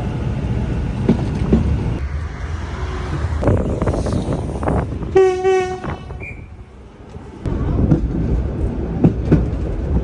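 Steam tram carriage running on the rails with a steady rumble and clicks from the rail joints. About five seconds in, a train whistle sounds once, briefly. Just after it the rumble drops for a moment and then picks up again.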